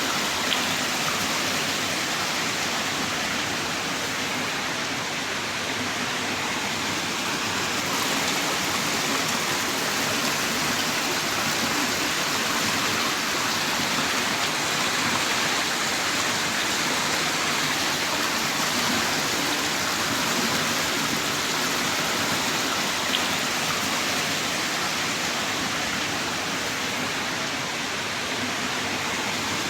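Heavy rain pouring down steadily, an even wash of rain noise with a faint tick or two of drops.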